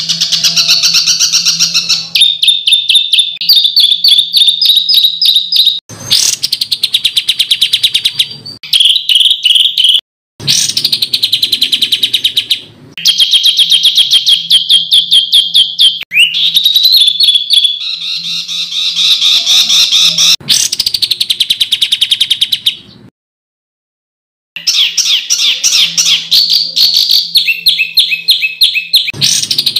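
Songbird song of harsh, loud 'tembakan' (rapid-fire) phrases: fast strings of rapidly repeated high notes, cut into segments that start and stop abruptly, with a longer break about three quarters of the way through.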